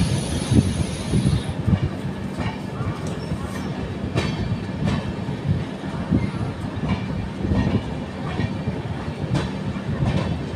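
Passenger train running on the track: a steady low rumble of the coaches with irregular clacks and knocks of the wheels over rail joints.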